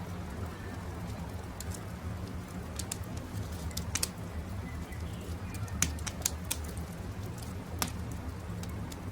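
Wood campfire crackling: sharp, irregular pops, the loudest about six seconds in, over a steady low rumble. A bird calls faintly in the background.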